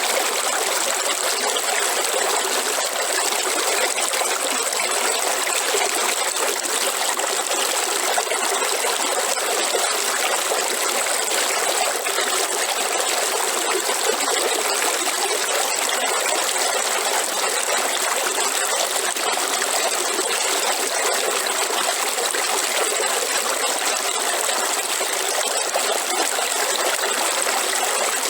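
Waterfall: water falling and rushing in an even, unbroken hiss.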